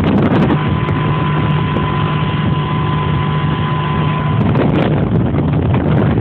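Speedboat engine running at speed, a steady hum and a thin steady tone from about half a second in until about four and a half seconds, under heavy wind noise on the microphone.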